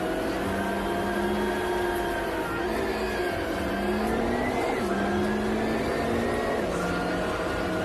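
Road-vehicle engine and tyre noise: an engine pulls with its pitch slowly rising, then drops back several times as through gear changes, over a steady low rumble.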